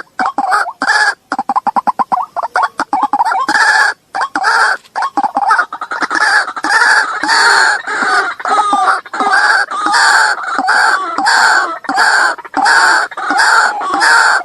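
White-breasted waterhen (ruak-ruak) lure call: a rapid stuttering run of short notes for the first few seconds, then loud calls repeated evenly, nearly two a second.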